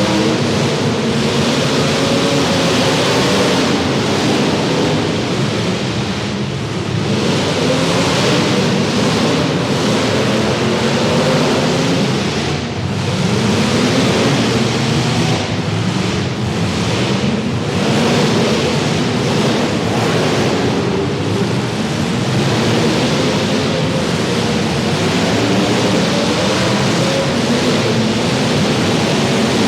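Several demolition derby car engines running and revving at once, their pitches rising and falling against each other, over a steady wash of noise.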